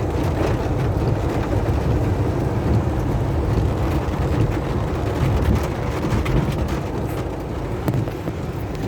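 A car driving in rain: a steady low road rumble with scattered ticks of raindrops.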